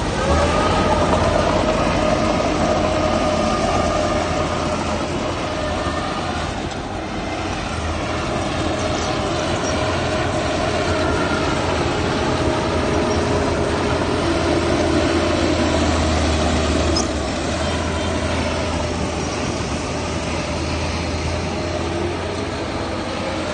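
A large vehicle running steadily: a low rumble with a steady high whine over it.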